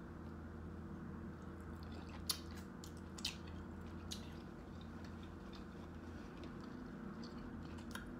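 Person chewing a mouthful of seafood with the mouth closed: soft wet mouth sounds with a few faint smacks and clicks, over a steady low hum.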